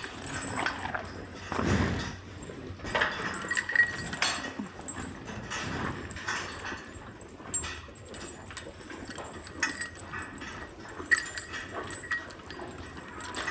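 Dairy cows eating corn silage in a barn, with irregular knocks, clatter and rustling as they feed and shift about.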